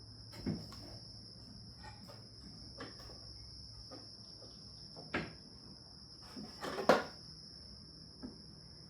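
Scattered knocks and clinks of tools and car parts being handled, the loudest about seven seconds in. Under them runs a steady high-pitched cricket trill.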